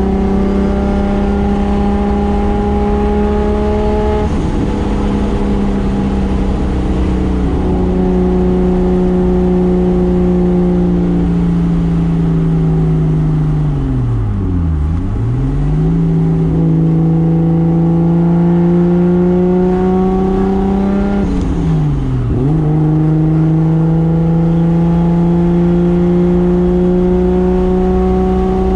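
Single-turbo 2JZ straight-six engine of a 1995 Toyota Soarer, driven hard at sustained high revs. Twice, about midway and again around two-thirds through, the revs drop sharply and then climb straight back.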